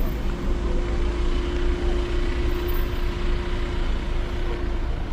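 Steady mechanical hum holding one pitch over a heavy low rumble and street background noise.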